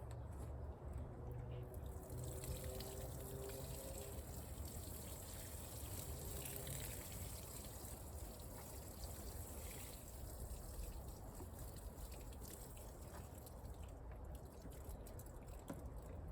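Water pouring and splashing from a garden hose, a steady hiss that rises about two seconds in and eases off near the end.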